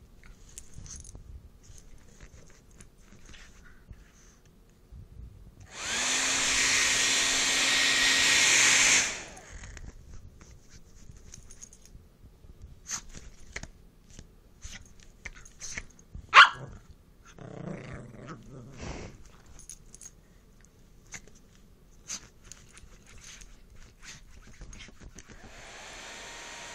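A handheld hair dryer blows loudly for about three seconds, then cuts off; a puppy gives one sharp bark and a short low growl, among scattered small clicks and taps. Near the end the hair dryer comes on again, quieter.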